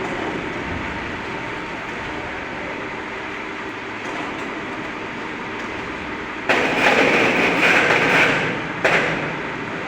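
Steady mechanical rumble of foundry machinery. About six and a half seconds in, a much louder harsh rushing noise starts abruptly and cuts off about two seconds later.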